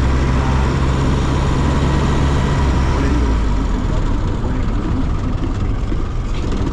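A motor vehicle engine running with a steady low hum that eases off about three seconds in.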